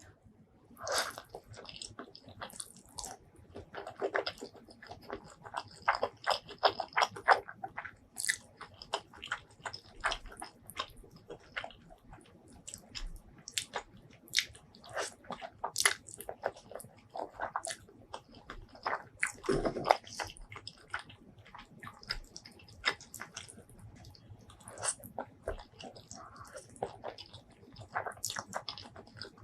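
Close-miked eating sounds: a person biting and chewing food, with many irregular sharp crunching clicks.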